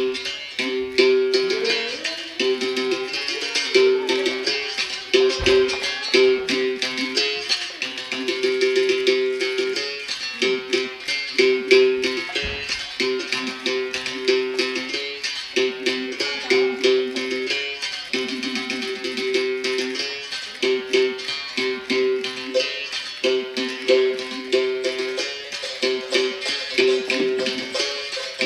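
Capoeira music on a berimbau: the steel string struck with a stick in a steady rhythm, switching between two notes, with a rattle on each stroke.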